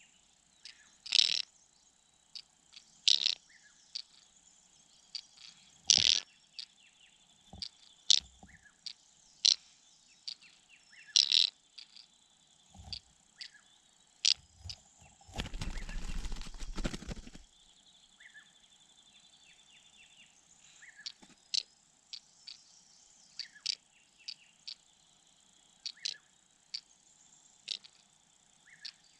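Small birds giving short, sharp chirps at irregular intervals, over a steady background of crickets chirping. Halfway through comes a rustling, fluttering burst about two seconds long.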